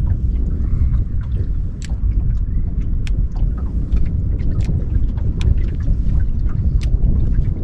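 Wind buffeting the microphone as a steady low rumble, with scattered sharp ticks and clicks throughout.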